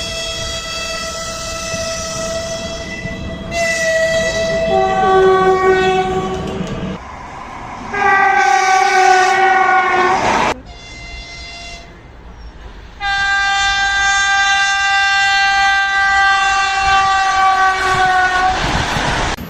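Train air horn (typhon) sounding a series of long, steady chord blasts. The pitch of the chord changes between blasts; the loudest starts about eight seconds in and the longest about thirteen seconds in.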